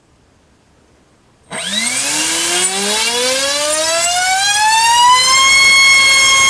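Gartt HF500 1600kv brushless motor spinning a TGS 6x5 propeller on a 6-cell battery during a thrust test. After about a second and a half of quiet it starts up with a whine that rises smoothly in pitch for about four seconds as it is throttled up, then holds at a steady pitch.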